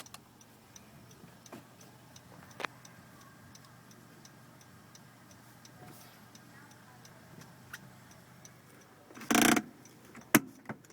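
2014 Honda Accord's hazard-light flasher ticking steadily and softly, a regular tick-tock over a faint low hum in the cabin. Near the end there is a short loud rush of noise, then a sharp click.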